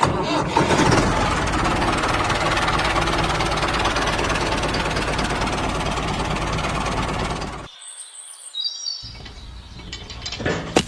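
Small DC motor of a homemade toy construction machine running with a steady rattling whir, which cuts off about eight seconds in. A few short high chirps follow.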